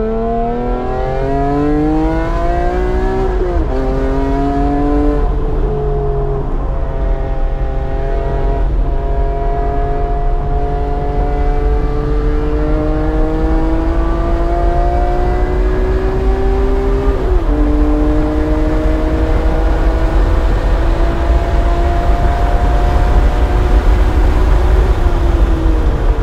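BMW E46 M3's 3.2-litre inline-six under hard acceleration on track. The engine note climbs steadily through each gear and drops sharply at several upshifts, with one long pull in a higher gear, then falls away near the end as the driver lifts.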